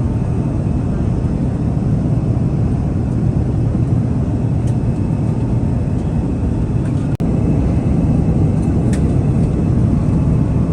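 Steady low cabin rumble inside an Airbus A350-900 airliner. A brief break about seven seconds in, after which it runs on slightly louder.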